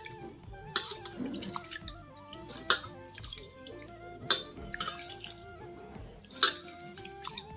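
Rice being washed by hand in a bowl of water: water sloshing and dripping, with four sharp splashes spaced a second or two apart, over background music with a melody.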